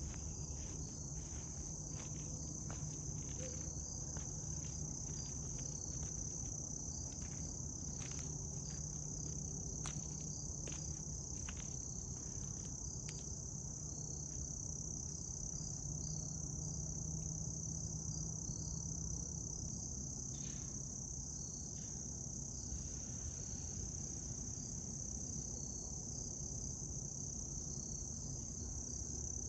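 Insects chirring in a steady, high, unbroken chorus, with faint scattered clicks through the first half and a few more about two-thirds of the way in.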